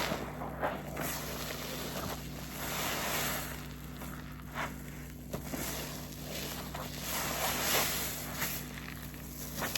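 A pink waffle-textured car-wash sponge soaked with soapy detergent being squeezed and wrung, giving wet squelching and crackling that swell and fade over several squeezes.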